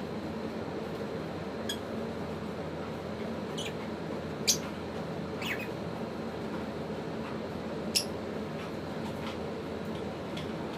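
African lovebirds giving a handful of short, sharp chirps, spread out over several seconds, over a steady background hum.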